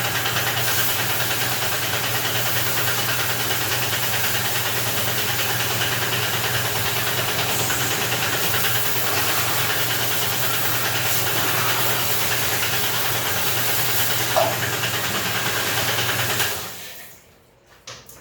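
A machine runs steadily, a low hum under a loud, even hiss of a pressure jet, then shuts off about sixteen and a half seconds in, leaving a few light knocks.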